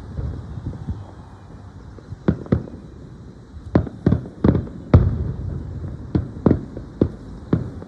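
Aerial fireworks shells bursting: after a lull of about two seconds, a rapid string of about a dozen sharp bangs, the loudest about five seconds in, each with a short booming tail.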